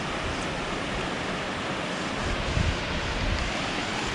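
Steady rushing of a waterfall, with wind buffeting the microphone as low rumbles for about a second near the middle.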